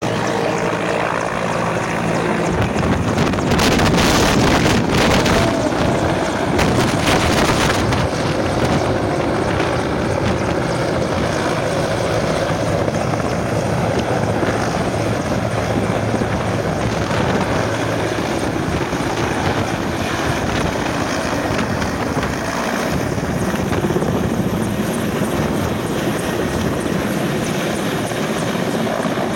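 A motor running steadily with a low drone, with wind noise on the microphone that gusts a few seconds in.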